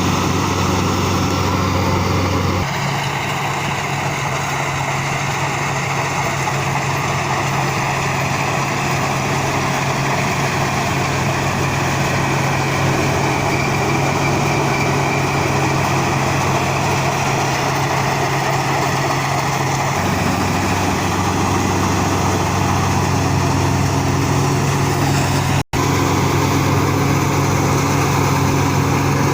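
Rice combine harvester's engine and machinery running steadily. The engine note shifts about three seconds in and again about two-thirds of the way through, and the sound drops out for a split second near the end.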